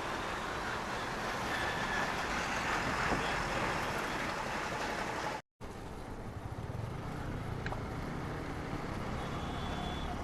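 Steady road noise from a moving motorcycle ride, wind rush and engine mixed with passing traffic. It cuts out for a moment about halfway through.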